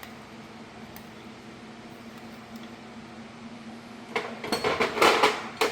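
Metal tools clinking and clattering against each other in a quick burst near the end, as a steel C-clamp is picked up from among them. A faint steady hum runs underneath.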